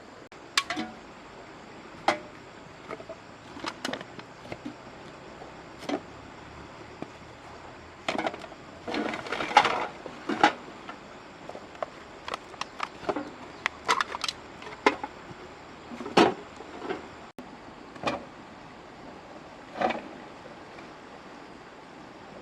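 Irregular knocks and clinks of objects being handled, some in quick clusters, over a steady background hiss.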